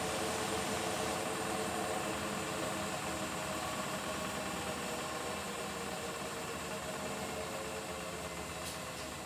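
Beko WTK104121W washing machine's drum and motor running in the 600 rpm spin of a delicates cycle, a steady hum with a whine that gradually gets quieter as the spin winds down. Two faint ticks come near the end.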